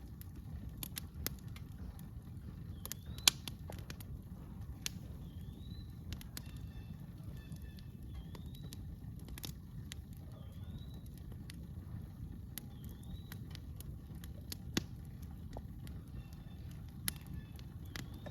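Campfire crackling with scattered sharp pops, one louder about three seconds in, over a steady low rumble. A bird repeats a short rising note every two to three seconds.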